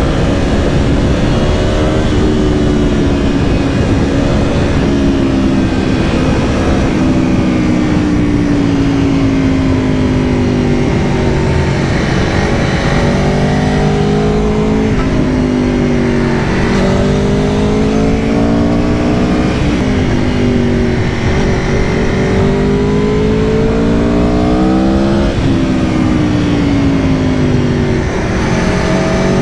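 Aprilia Tuono V4 Factory's V4 engine under way on the road. The engine note rises with the revs and drops abruptly several times at gear changes, with easier stretches where the pitch falls off gradually.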